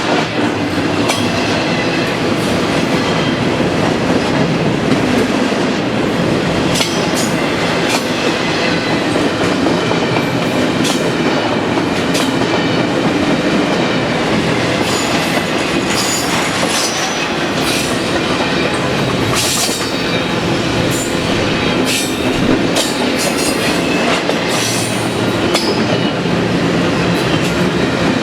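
BNSF double-stack intermodal freight train rolling past, a steady loud rumble of wheels on rail with irregular clicks and clanks as the cars pass, and faint high wheel squeal now and then.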